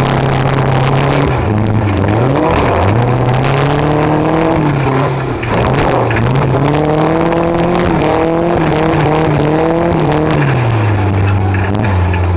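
Ford Ranger pro-arena truck's engine revving hard, its pitch repeatedly climbing and dropping as the throttle is worked, falling away to a lower note near the end.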